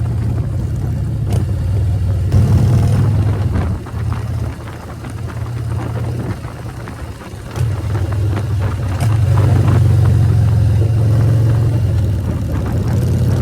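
Harley-Davidson motorcycle's V-twin engine running while riding. It eases off about four seconds in, then pulls harder again from about eight seconds.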